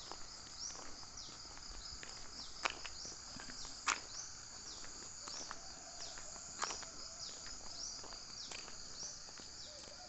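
Crickets trilling in a steady, high-pitched chorus, with many short chirps over it and a few sharp clicks.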